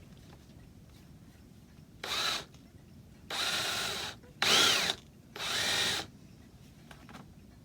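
Electric drill run in four short bursts, boring out the centre of an old wooden dowel in a chair joint. In the loudest burst the motor's whine dips in pitch and recovers as the bit bites.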